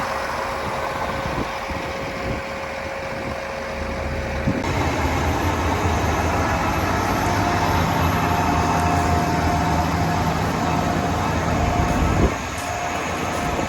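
A vehicle engine running steadily with a low hum. The sound changes abruptly about four and a half seconds in and again near twelve seconds.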